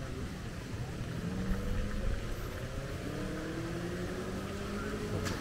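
A motor vehicle's engine accelerating in the street, its pitch rising slowly and steadily over a few seconds, above a low traffic rumble.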